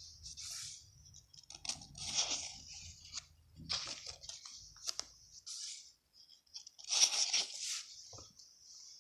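Paper rustling and crinkling in irregular bursts, with a few sharp clicks, as the paper pages of a handmade journal are handled.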